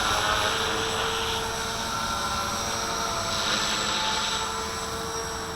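Walkera V450D01 450-size electric RC helicopter running in flight, its motor and rotor giving a steady whine. A rushing gust noise swells and fades twice over it.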